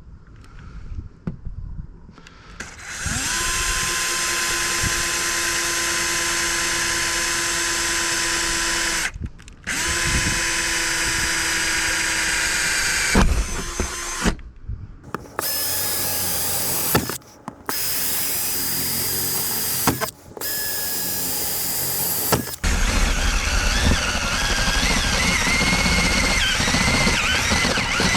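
Power drill drilling pilot holes through the van's sheet-metal roof, run in several bursts with short pauses; each run spins up to a steady whine, and the last run, near the end, is louder and noisier.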